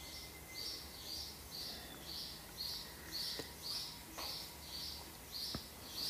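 A bird chirping over and over in a steady rhythm, about two short high chirps a second, with a few faint knocks in the background.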